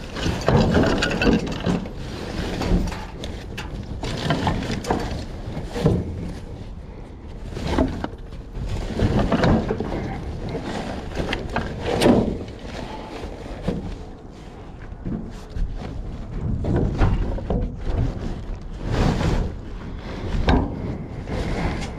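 Items being handled and rummaged through in a dumpster: irregular knocks, clunks and rustling.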